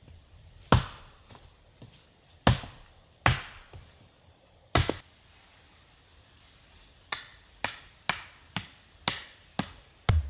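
Sharp knocks: four spaced irregularly over the first five seconds, then an even run of strikes about two a second from about seven seconds in.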